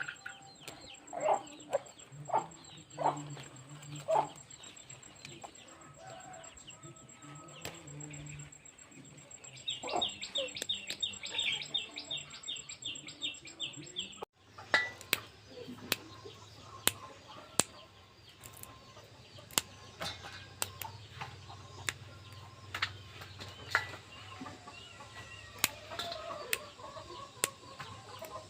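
Chickens clucking amid scattered clicks and knocks, with a rapid run of short high notes about ten seconds in. The background changes abruptly about halfway through.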